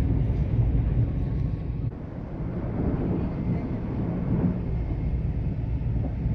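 Passenger train running along the track, a steady low rumble. It drops off for a moment about two seconds in, then builds back.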